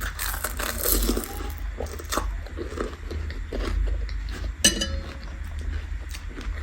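Close-miked eating: repeated biting and chewing with crunching and crackling, and one sharp metallic clink with a brief ring about four and a half seconds in.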